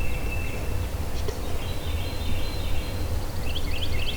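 Songbirds singing in the dawn chorus: phrases of quick rising chirps that run into a trill, with a higher trill in the middle, over a steady low rumble.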